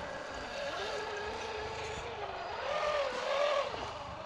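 Electric motor and gear whine of a scale RC crawler truck, rising and falling in pitch with the throttle, louder about three seconds in.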